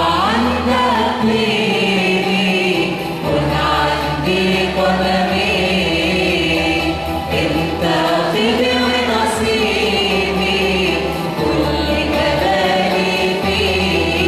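Choir singing an Arabic Christian hymn in unison, with sustained, wavering melodic lines over a steady instrumental bass accompaniment.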